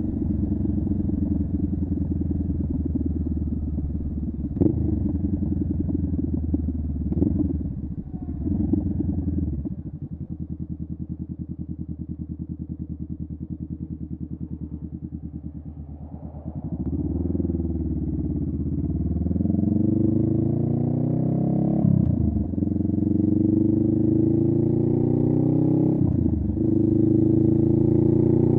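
Honda Rebel 500 parallel-twin motorcycle engine through a Vance & Hines upsweep exhaust. It runs steadily with a few quick revs, settles to a low idle for several seconds, then accelerates with rising pitch, dipping twice for upshifts.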